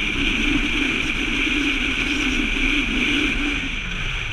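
Steady rush of wind and running noise from a moving passenger train, picked up by a camera held out of the carriage window.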